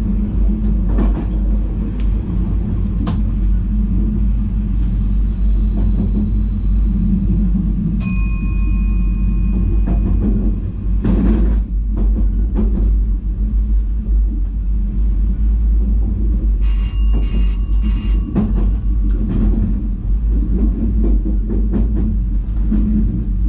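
VIRM double-deck electric train running slowly, a steady low rumble with a few clatters over the points. A single electronic chime rings about 8 s in and fades, and three short beeps sound about 17 s in.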